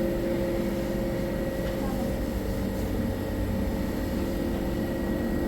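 A steady mechanical hum: a low rumble with a few constant tones, unchanging throughout.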